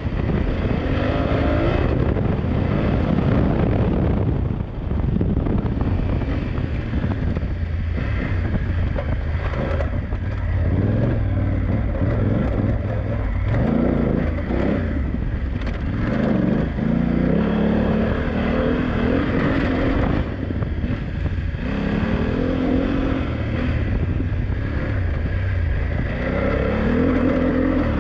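BMW F900GS parallel-twin engine under hard off-road riding, revving up and falling back again and again as the rider works the throttle and gears, with a steady low rumble underneath.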